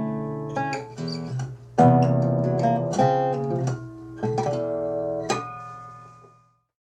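Background music: plucked acoustic guitar notes and chords, dying away near the end.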